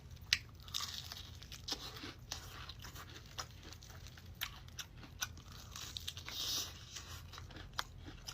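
A person biting into and chewing crispy fried chicken close to the microphone: irregular crunches and wet mouth clicks.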